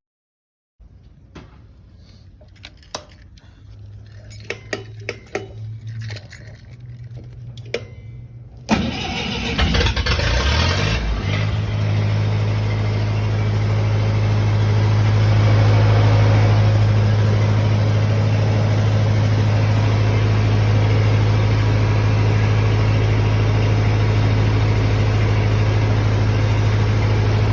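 A few faint clicks and knocks, then about nine seconds in the Lincoln SA-200 welder's gas engine fires on a cold start in freezing weather. It runs unevenly for a couple of seconds, then settles into a steady run with a low hum.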